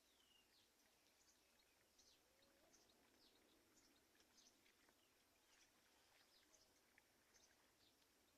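Faint bird chirps: many short, high notes, each dropping in pitch, scattered irregularly over a quiet background hiss.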